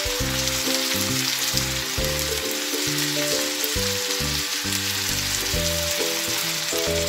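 Chicken pieces and onions frying in oil in a steel pan on a gas burner, a steady sizzle. Background music with a bass line stepping between notes plays underneath.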